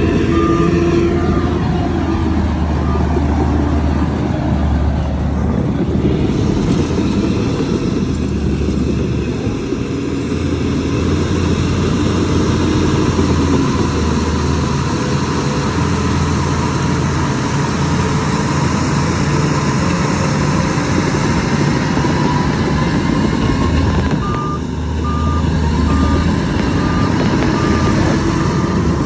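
Heavy diesel machinery engine running under load with a continuous low rumble. A reversing alarm beeps steadily at the very start and again near the end.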